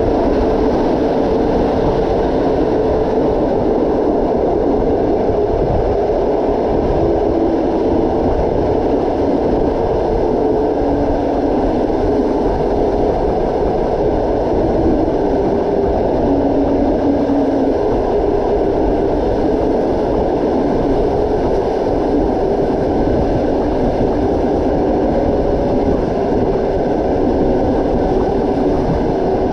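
Steady running noise of a moving train, wheels rumbling on the rails, with a few faint tones rising and fading.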